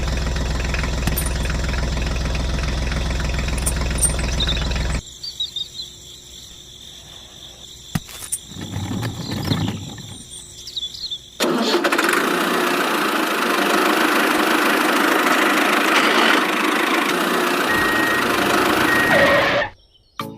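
An engine runs steadily with a low hum and stops abruptly about five seconds in. After a quieter stretch with scattered small sounds, a loud, steady rushing noise starts about eleven seconds in and cuts off sharply near the end.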